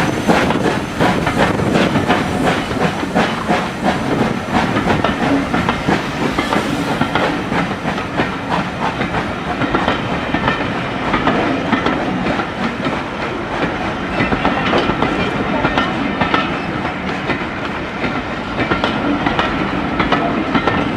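A train running past, its wheels clattering over the rail joints in a steady stream of clicks.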